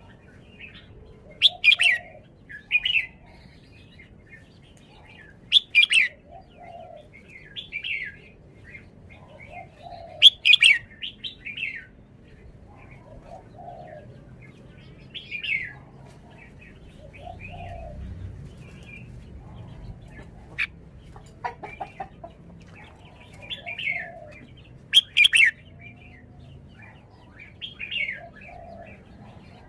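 Red-whiskered bulbul singing short warbled phrases every two to three seconds, with a few sharp clicks among them.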